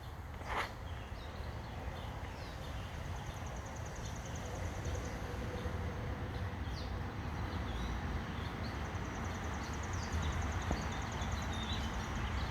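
Small birds chirping in a backyard, with a rapid, evenly pulsed high trill heard twice, once around the third to fifth second and again from about the ninth second on. Under them runs a steady low rumble that slowly grows louder.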